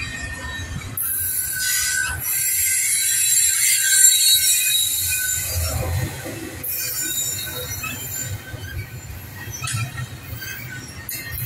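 Double-stack intermodal freight train's well cars rolling past, their wheels squealing in high steady tones over a low rumble. The squeal starts about a second in, is loudest around four seconds, drops off briefly past the middle and then comes back.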